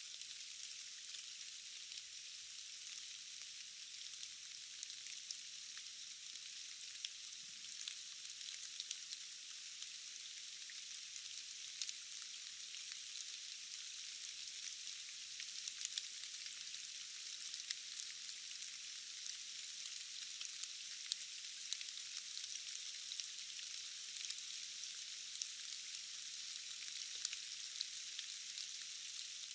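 Steady rain falling in a forest: an even, high hiss with no low rumble, dotted throughout with short sharp ticks of individual drops.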